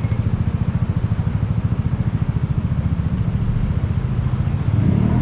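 Large engine idling close by with a fast, even low throb. Near the end it revs up and rises in pitch as the vehicle begins to pull away.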